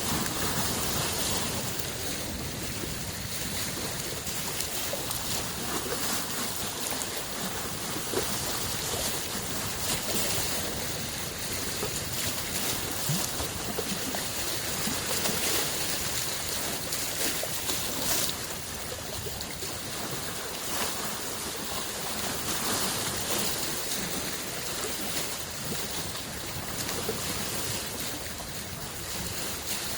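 Small freshwater lake waves washing in: a continuous rushing that swells and eases every few seconds, with small splashes.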